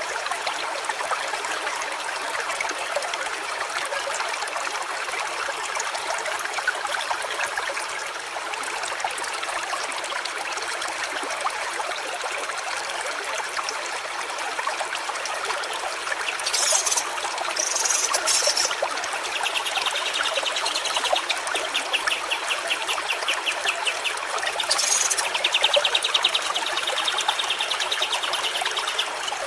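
Small stream trickling and running steadily over stones. In the second half, a fast high trill joins in and continues, with a few short high hissing chirps just before it.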